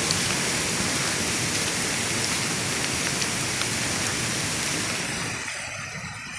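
Heavy rain pouring steadily, which fades out about five seconds in, leaving scattered drips.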